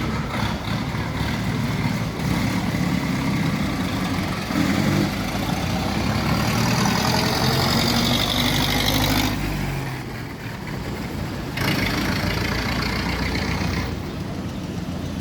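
Motor vehicle engine running, a steady low hum, with two spells of louder hiss about halfway through and again a couple of seconds later.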